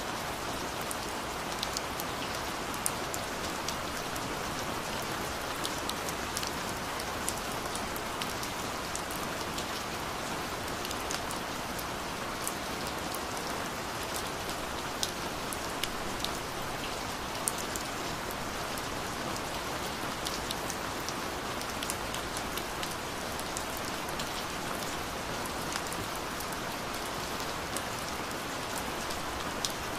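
Gentle rain falling steadily: an even hiss of rain with many scattered individual drops ticking on a surface.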